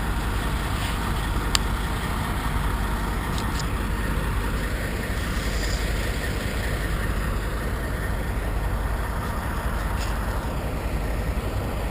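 Steady low rumble of parked semi trucks idling in a truck stop lot.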